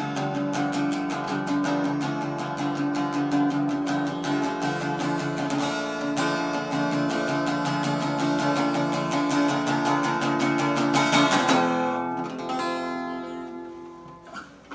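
Acoustic guitar strummed quickly and steadily. About three quarters of the way through the strumming stops, and the last chord rings out and fades away.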